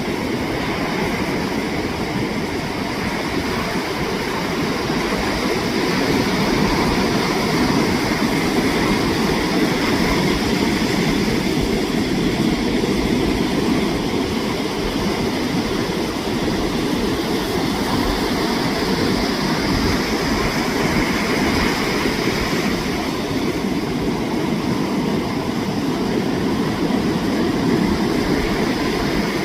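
Ocean waves breaking on a beach: a steady rush of surf that swells slightly in loudness a couple of times.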